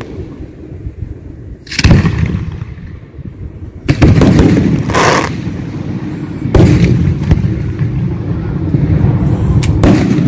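Aerial firework shells bursting overhead: four loud booms, roughly two to three seconds apart, each trailing off into a low rumble.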